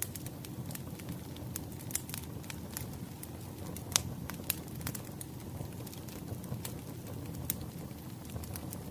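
Wood fire crackling: a steady low rumble of burning logs with irregular sharp pops, the loudest about four seconds in.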